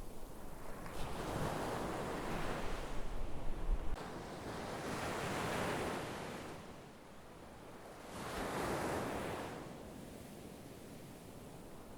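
Sea waves washing in on the shore, three surges swelling and fading away in turn. Wind rumbles on the microphone for the first few seconds.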